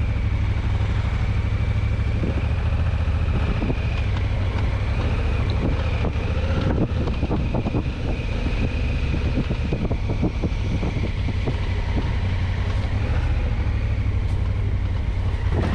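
Adventure motorcycle being ridden off-road, its engine running steadily under heavy wind rumble on the microphone, with scattered knocks and rattles in the middle stretch.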